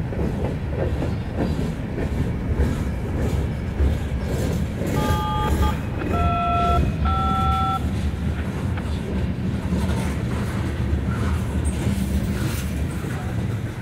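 Freight train's covered hopper cars rolling past close by: a steady low rumble of steel wheels on the rails. About five seconds in, three short steady tones sound one after another, each lasting under a second.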